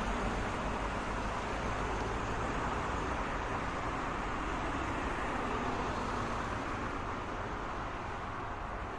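Road traffic noise: a steady wash of passing cars and tyre noise, easing off slightly near the end.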